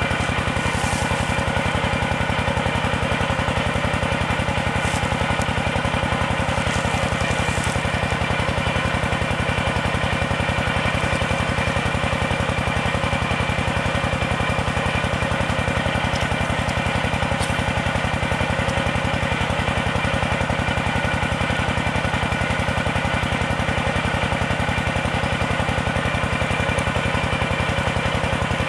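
Tractor engine driving a water pump, running steadily at an even speed.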